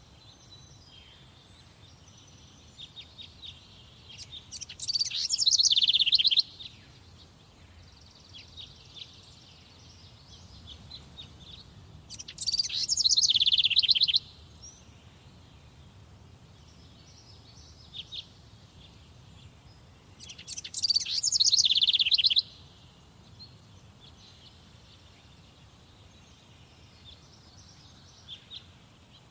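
A songbird singing a loud, rapid, high trilled phrase about two seconds long, three times roughly eight seconds apart, with fainter calls of other birds in between.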